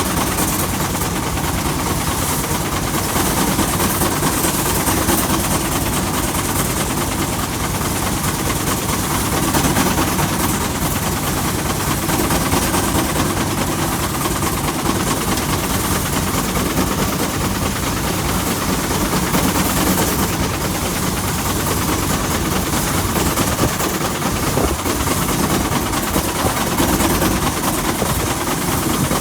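Threshing machine and the tractor engine driving it running steadily: a dense, even mechanical clatter with no let-up.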